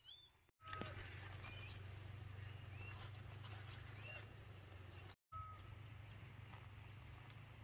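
Scattered short bird chirps over a faint steady low hum; the sound drops out abruptly twice for a split second.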